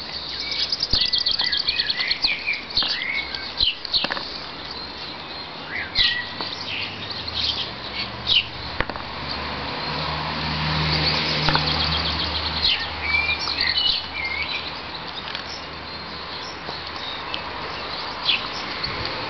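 Small songbirds chirping and trilling over and over, with a low hum that swells in the middle and fades away.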